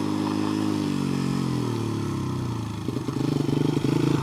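Honda XR100 dirt bike's small single-cylinder four-stroke engine running at steady revs, its pitch easing down in the middle, then turning into a choppier, louder pulsing near the end.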